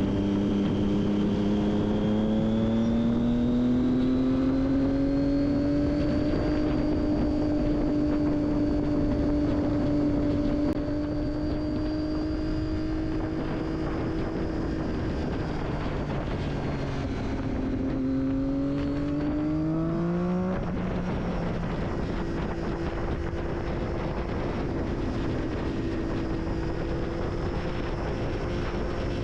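Triumph Daytona 675 inline-three engine through an Akrapovic exhaust, heard from the moving bike. The engine note rises gently and holds steady, dips, then climbs quickly and drops suddenly at a gear change about two-thirds of the way through, settling into a steady lower note.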